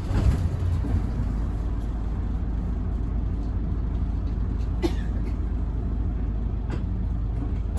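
City bus engine idling, heard from inside the cabin as a steady low rumble, with two short sharp clicks, one about five seconds in and one near the end.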